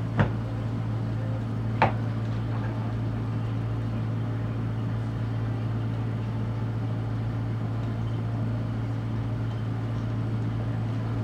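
Steady low hum of a boat's engine idling before departure, with two sharp knocks in the first two seconds.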